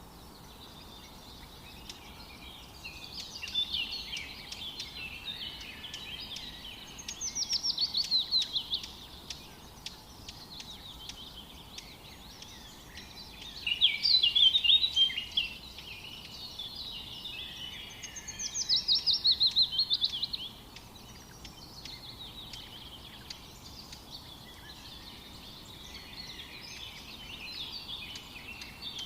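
Songbirds singing in a forest chorus, with several louder song phrases; twice a bird gives a fast run of notes that falls in pitch over about two seconds. A faint steady background hiss lies underneath.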